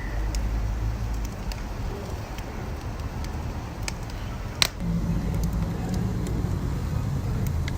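Wood fire crackling, with sharp pops scattered through and one louder pop about halfway through, over a steady low rumble.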